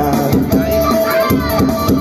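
Pop-rock band music with a drum kit keeping the beat and a long held note, an instrumental passage between sung lines.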